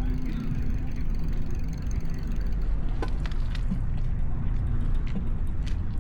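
Steady low rumble of wind and rolling noise from a bicycle riding along a city street, with a few short sharp clicks in the second half.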